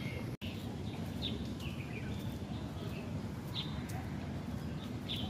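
Birds chirping, many short calls scattered over a steady low background noise, with a brief break in the sound about half a second in.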